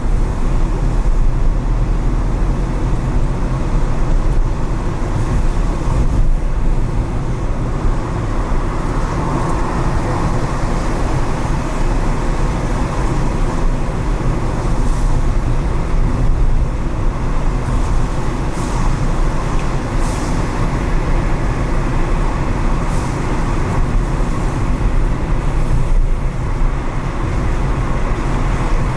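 Steady road noise from a car driving on city streets after rain: a constant low rumble of engine and tyres, with a few brief hisses near the middle that fit tyres on wet pavement or passing traffic.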